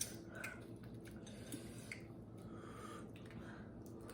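Quiet eating sounds: soft chewing with small scattered clicks, over a faint steady hum.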